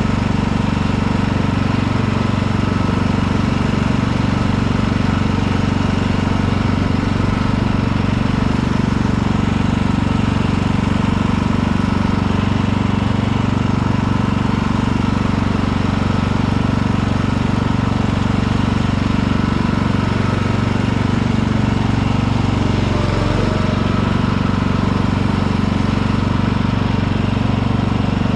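Riding lawn tractor's engine running steadily at an even speed, with a deep, unchanging hum and a brief dip and rise in pitch about 23 seconds in.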